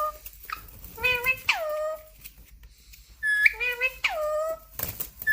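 Indian ringneck parakeet calling: a short, high-pitched phrase ending in a falling glide, given again and again about every two to three seconds.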